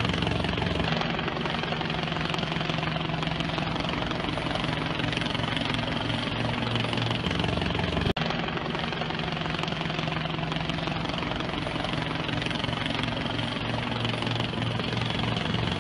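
A steady engine drone with a brief break about eight seconds in.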